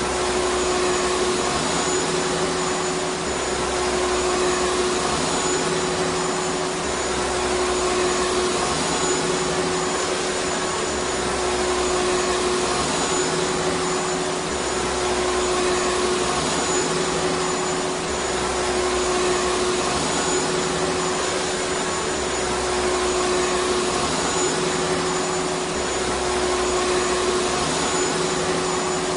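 Vacuum cleaner motor running steadily: an even whooshing hiss with a constant hum. A low rumble swells and fades about every two and a half seconds.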